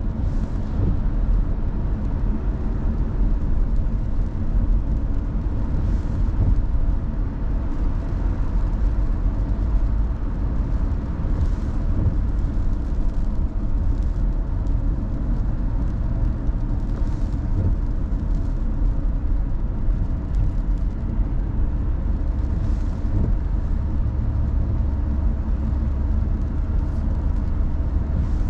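Steady low road and engine noise of a car driving, with a faint swish repeating about every six seconds.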